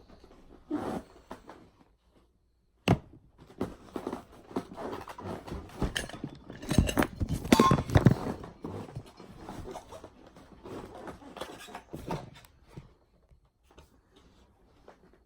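Irregular handling noises: a single sharp knock, then a run of knocks, clinks and scrapes that grows busier midway and dies away near the end.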